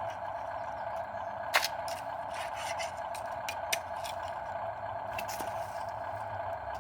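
Huina 1573 radio-controlled toy dump truck's small electric motor and gears whining steadily, with sharp clicks and scrapes of gravel and plastic, the loudest about a second and a half in and another near four seconds.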